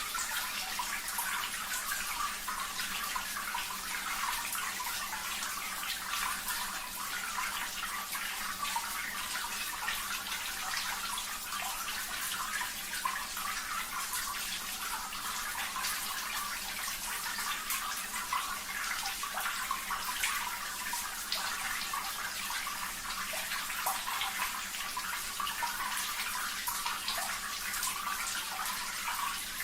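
Running water splashing steadily, an even trickling hiss without pauses.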